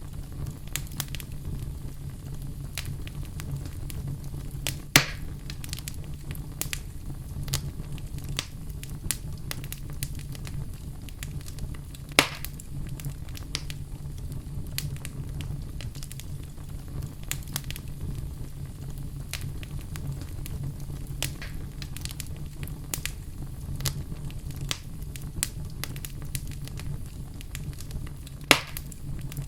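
Wood fire burning in a fireplace: a steady low rumble of flames under constant small crackles and ticks, with three louder sharp pops spread through.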